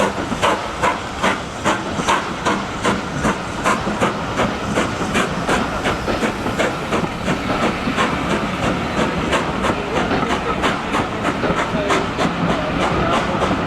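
Steam locomotive working hard, its exhaust beats coming steadily at about two and a half a second and quickening as it gathers speed, over a continuous steam hiss.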